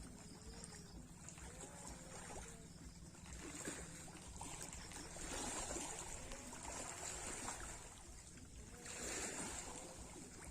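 Sea waves washing in, in several surges, over a steady low hum.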